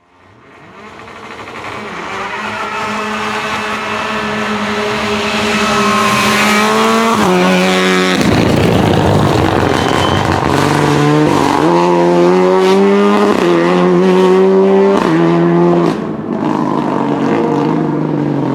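Renault Clio Rally4 rally car's turbocharged four-cylinder engine at full throttle, fading in and rising in pitch, then snapping through quick upshifts about seven seconds in and again several times later. A noisy rush of the car going by comes about eight to ten seconds in.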